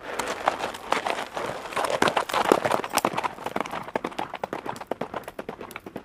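A horse wading through a shallow pond, its hooves splashing in rapid, irregular strikes that start suddenly and slowly ease off.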